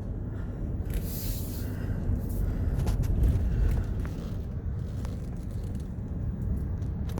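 Vehicle driving, a steady low rumble of engine and road heard from inside the cabin, with a brief hiss about a second in and a few light clicks.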